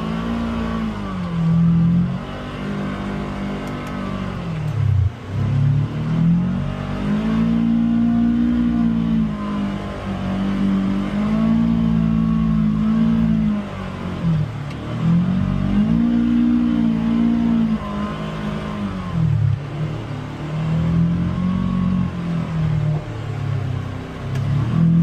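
Polaris Xpedition UTV engine heard on board, its pitch rising and falling several times as the throttle is opened and eased off, with brief drops in engine speed between pulls.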